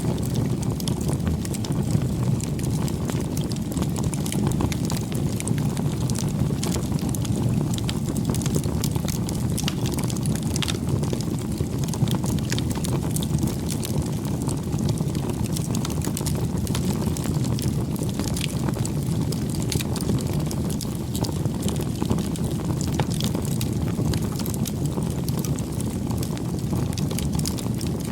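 Wood campfire burning: a steady low rush of flames with frequent small, sharp crackles and pops from the burning wood.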